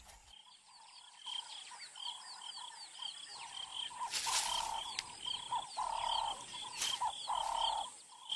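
Birds chirping: a quick, even series of short high chirps, with lower calls coming and going beneath them and growing stronger partway through.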